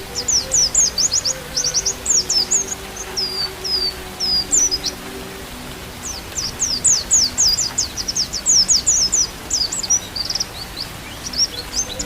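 Pleci (white-eye, Zosterops) song: fast runs of high, falling chirps, breaking off about five seconds in and starting again a second later.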